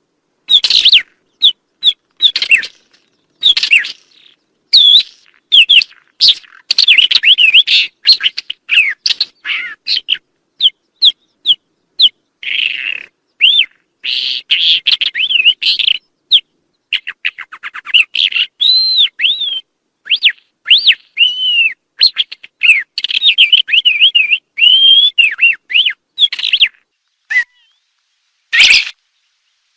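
A songbird singing a long, varied song of rapid chirps, trills and whistled notes in phrases with short pauses, with a longer pause near the end before one more short phrase.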